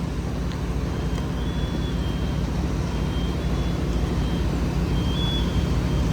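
Fire apparatus diesel engine running steadily, with intermittent short high-pitched electronic beeps from about a second in.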